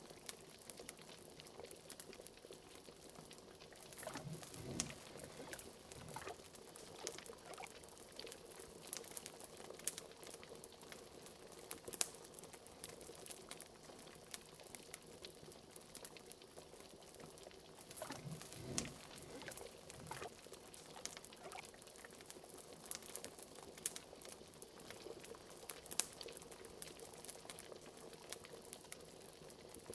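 Liquid bubbling at a boil, as in a cauldron, with a fire crackling in scattered sharp pops. Larger gurgles come about four and about eighteen seconds in.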